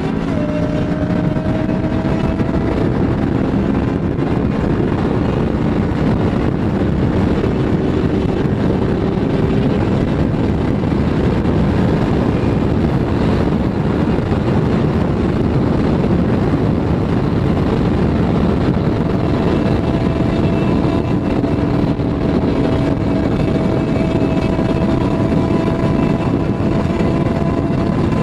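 Kawasaki ER6N parallel-twin motorcycle engine running steadily in a high gear at speed, largely covered by loud wind rush on the microphone. The engine note climbs slowly over the last third.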